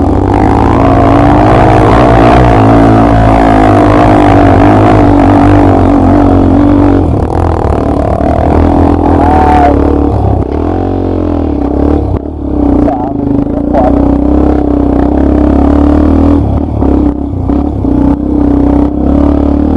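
Off-road trail motorcycle engine running hard under throttle, its pitch rising and falling as the throttle is worked. About ten seconds in the note swoops down and back up with a brief dip, and near the end the throttle goes on and off in short choppy pulls.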